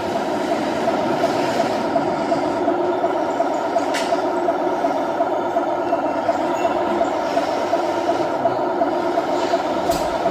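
Radio-controlled model truck running with a steady mechanical drone, with a sharp click about four seconds in.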